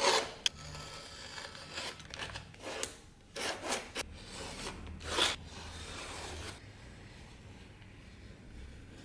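Irregular rubbing and scraping strokes made by hand, as in hand-sanding or filing the knife, several strokes in the first few seconds, then quieter after about six and a half seconds.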